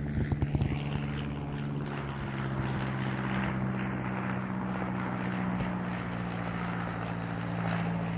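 Airplane passing overhead: a steady engine drone with a low hum under it. A few knocks come in the first second, and insects chirp faintly in a quick, even pulse.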